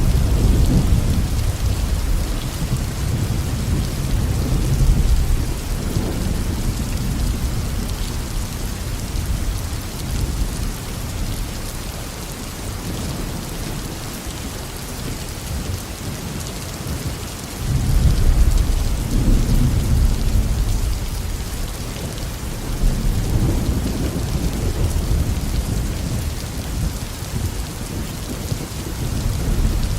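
Heavy tropical rain falling steadily, with thunder rumbling low underneath. A fresh roll of thunder starts suddenly a little past halfway and rolls on for several seconds, followed by another lighter rumble.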